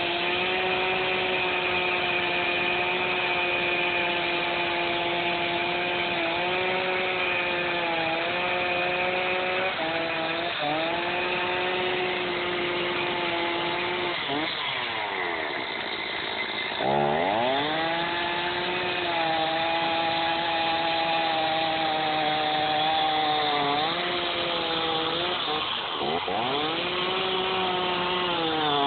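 Two-stroke chainsaw running at high revs while cutting into a log, its pitch sagging briefly as the chain bites. About halfway through the revs fall away, then it is sharply revved up again and carries on cutting.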